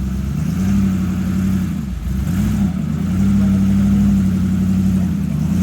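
A vehicle engine running at raised revs. Its pitch steps up about half a second in, drops back briefly around two seconds, then holds higher before easing off near the end.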